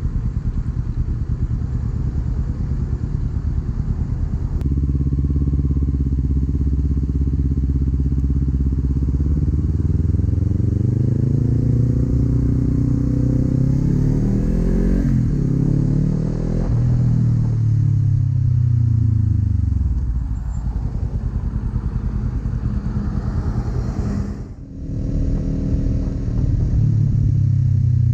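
2019 Kawasaki Z400 parallel-twin engine through an aftermarket Akrapovič exhaust, ridden on the road. It runs low and steady at first, then accelerates with its pitch climbing for several seconds before falling away as the bike slows. Near the end the sound drops out briefly, then picks up again and eases off.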